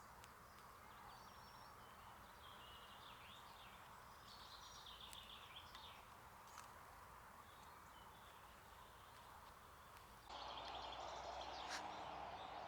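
Faint birdsong from several small birds, short chirps and trills, over the steady hum of distant road traffic. About ten seconds in, the background hum abruptly gets louder.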